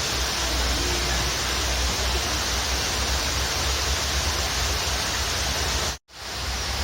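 Waterfall rushing steadily as a dense, even hiss of falling water. About six seconds in it cuts out for a moment and then fades straight back in.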